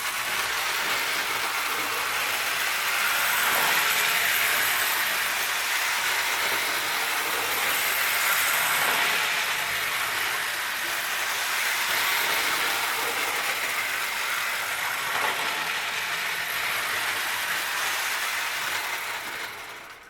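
JEP clockwork toy train running around a toy layout, its spring-driven motor and wheels on the track making a steady mechanical rattle. The sound fades away just before the end as the train stops, its spring running down.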